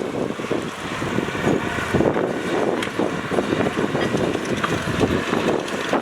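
Heavy earthmoving machinery running: a steady, rough engine noise with a few short knocks.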